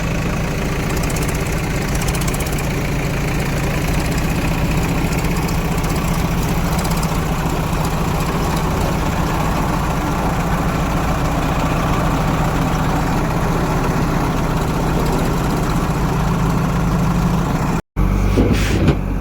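Heavy diesel engine of a working farm or earthmoving machine running steadily at a constant speed. Near the end the sound drops out for an instant and resumes changed, as at an edit cut.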